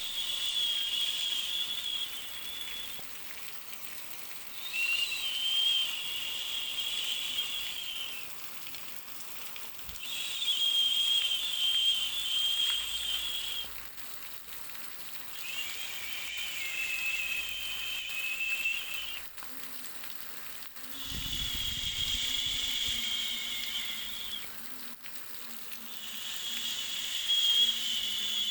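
Steady hiss of white noise with a high whistling tone laid over it. The tone sounds for about three to four seconds at a time, six times, with short gaps between; some whistles waver slightly in pitch or sound as two close notes.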